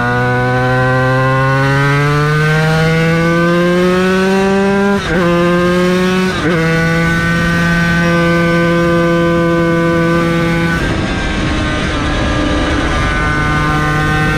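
Yamaha TZ250 two-stroke V-twin racing engine pulling hard, its pitch rising, then two quick upshifts about five and six and a half seconds in. It then holds a steady note, eases off about eleven seconds in, and picks up again near the end.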